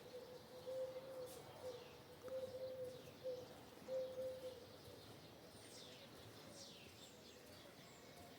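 Dove cooing: a run of low, even coos for the first half, fading after about four and a half seconds. Faint high, falling chirps of small birds come and go throughout.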